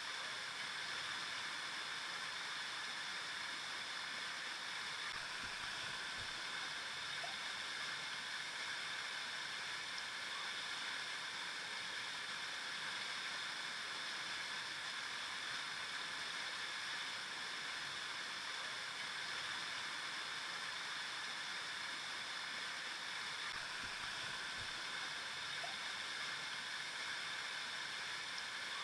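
River water flowing and rushing over rocks in a steady, even stream.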